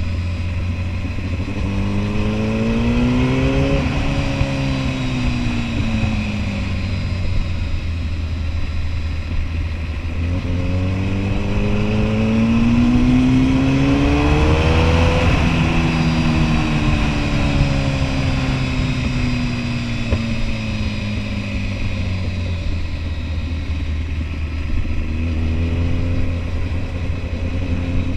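Kawasaki Ninja ZX-10R's inline-four engine on the move, accelerating and then easing off twice, its pitch rising for a few seconds and then sliding slowly down. It climbs again near the end, over a steady low wind rumble.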